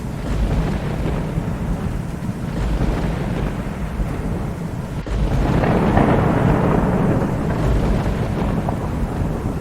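Thunder rumbling continuously over rain, with a louder roll of thunder swelling up about halfway through.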